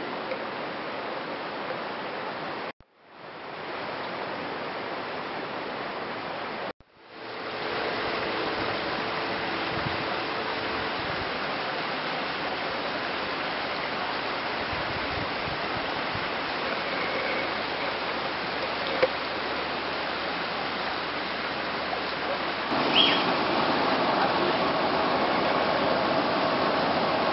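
Steady rush of flowing floodwater. It drops out abruptly twice in the first seven seconds and comes back, and grows louder about 23 seconds in, with faint voices behind it.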